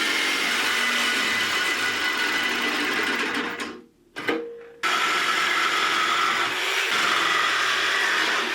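Power tool cutting through metal, running steadily with a hissing grind. It stops abruptly a little under four seconds in, gives a short hum, then starts cutting again about a second later.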